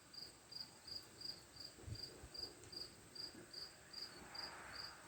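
A cricket chirping faintly and steadily, about two and a half high-pitched chirps a second. A soft low thump about two seconds in.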